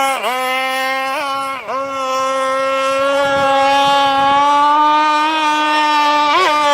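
Zenoah G320 two-stroke engine of a gasoline radio-controlled boat, fitted with a can-type pipe, running at high revs. It holds a steady high note and dips briefly a few times where the throttle is eased: just after the start, near two seconds in, and near the end.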